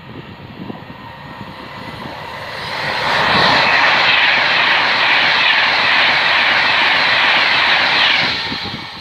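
Class 390 Pendolino electric express train passing at speed without stopping: a rush of wheels on rail and air that builds over the first few seconds, stays loud for about five seconds while the coaches go by, then falls away near the end.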